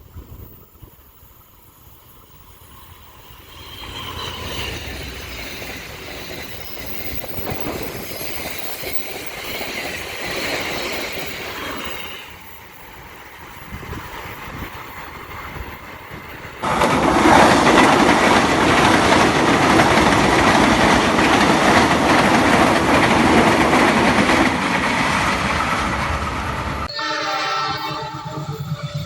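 Train passing along the line: a rumble and rattle of wheels on rails that builds and then jumps suddenly louder about two-thirds of the way through, with horn sounds.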